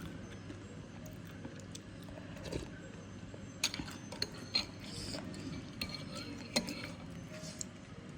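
Cutlery clinking against a bowl during eating, with a few sharp clinks in the second half over a low, steady background.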